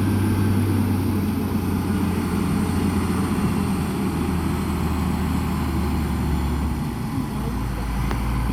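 Heavy construction-machine diesel engine running steadily with a low drone; the engine note drops lower about seven seconds in.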